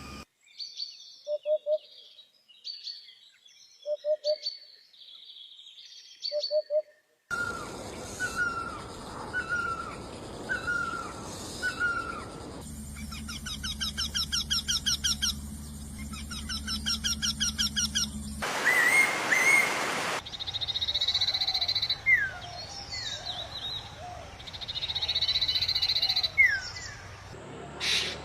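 Bird songs and calls from several different birds, one recording cut after another every few seconds. The first segment has high chirps and a low call repeated three times. Later segments have repeated short notes, fast trills and sliding whistles.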